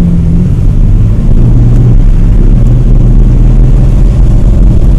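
Old Jeep 4x4's engine and road rumble heard from inside the cabin while driving on snowy roads; the engine note drops about a second in, then holds steady.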